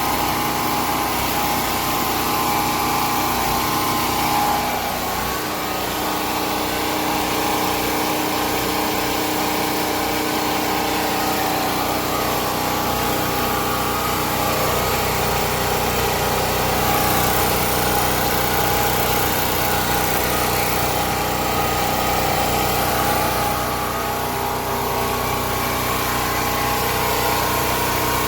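Predator 4000 portable generator's 212cc single-cylinder engine running steadily, quite loud.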